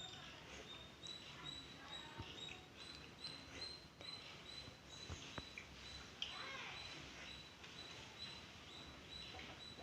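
Faint, high-pitched bird chirps repeating about twice a second over low background noise.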